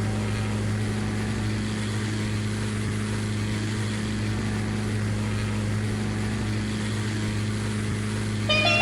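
Cessna 402's twin piston engines droning steadily, a low even hum with no change in pitch. Music comes in near the end.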